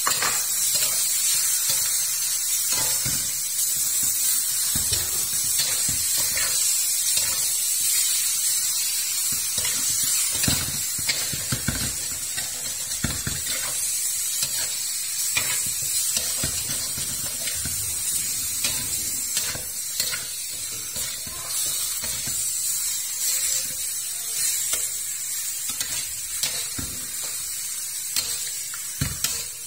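Sliced raw pork sizzling in hot oil and spices in a steel wok, a steady hiss, with a metal spatula scraping and clinking against the pan many times as the meat is stirred.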